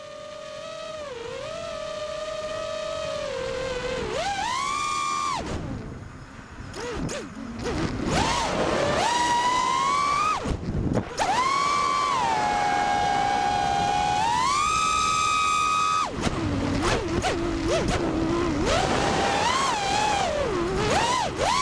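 5-inch FPV quadcopter's brushless motors (2206 2350kv on 4S) and tri-blade props whining, the pitch climbing to a high held whine on throttle punches and dropping suddenly when the throttle is cut, several times over.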